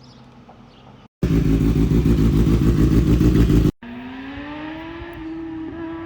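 Kawasaki ZX-6R inline-four sport-bike exhaust in three edited snippets: a quieter steady running note, a sudden very loud fast-pulsing high-rev blast lasting about two and a half seconds, then an engine note climbing slowly in pitch.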